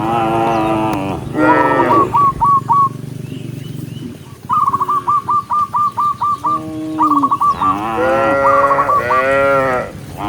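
Cows mooing several times in long rising-and-falling calls, with quick runs of short, high, repeated chirping notes in between. A low steady hum sits underneath for the first few seconds.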